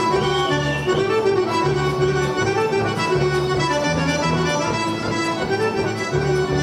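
Accordion playing a Serbian folk dance tune, with bass notes on a steady beat under the melody.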